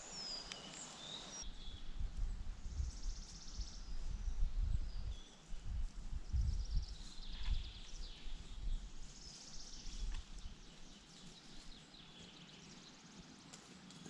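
Woodland birds calling and singing in short high phrases, with an irregular low rumble in the background from about two to ten seconds in.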